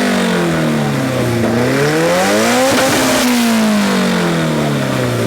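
Car engine being revved up and down repeatedly. The pitch climbs and falls slowly: it is falling at the start, rises to a peak near the middle, then falls again.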